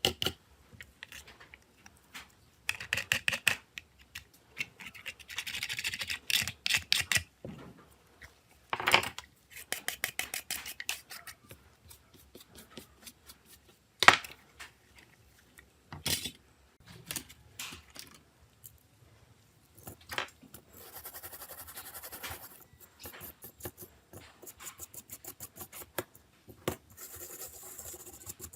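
Small hand tools scraping and clicking on a smartphone's parts: irregular bursts of scratching with sharp clicks, the loudest a single click about halfway through.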